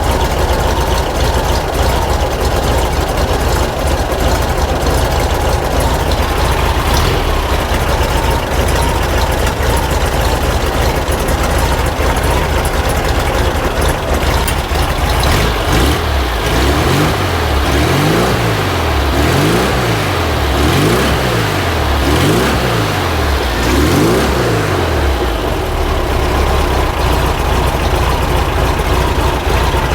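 Air-cooled flat-four engine of a 1950s VW Bus running steadily, then revved up and down in a run of quick blips about halfway through before settling back to idle.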